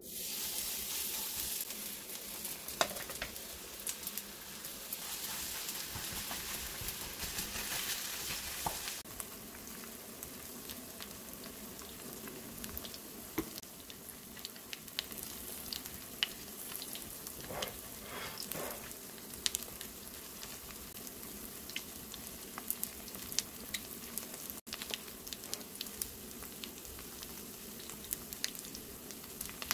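Squid pancake batter sizzling in hot oil in a frying pan, full of small crackling pops. The sizzle starts suddenly as the batter goes in, is loudest for the first nine seconds or so, then settles to a lower, steady fry.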